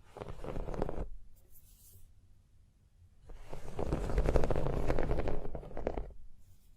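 Rapid ASMR tapping on an object, a quick run of taps lasting about a second, then a longer run of about three seconds.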